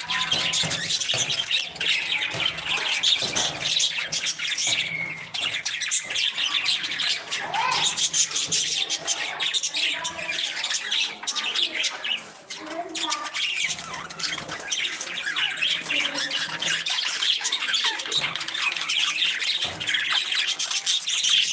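A flock of parrots chattering and squawking without a break, a dense mass of many overlapping short calls.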